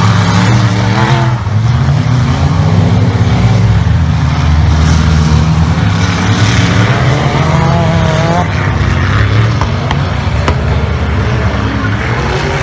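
4WD off-road race vehicle engine running hard on a dirt course, its pitch rising and falling as it is revved.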